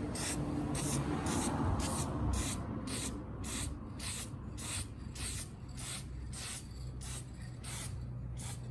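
Aerosol tint spray (Nightshades) being sprayed onto a motorcycle blinker lens in short, even bursts, about two a second, laying down a light coat.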